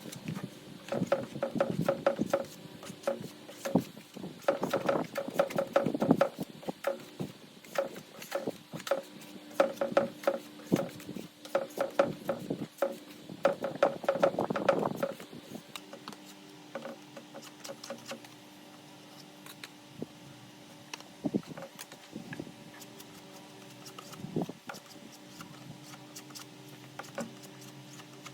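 Irregular rapid tapping and clattering, dense for about the first fifteen seconds and then only occasional knocks, over a faint steady hum.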